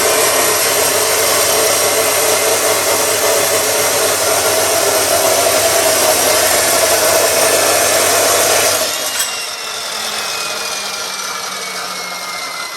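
Electric angle grinder working on steel, a loud steady grinding noise that cuts off about nine seconds in. The disc then winds down with a slowly falling whine.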